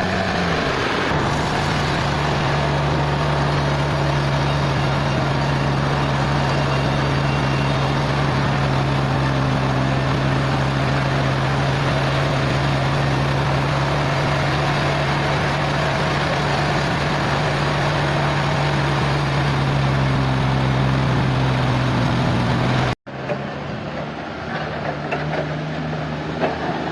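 Heavy machinery engine running steadily at constant speed, a low hum over mechanical noise. It cuts off abruptly about 23 seconds in, and a quieter, more uneven machine noise follows.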